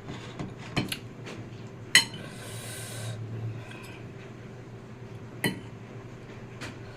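A few sharp clinks of cutlery against a dish during eating, the loudest about two seconds in, followed by a short hiss.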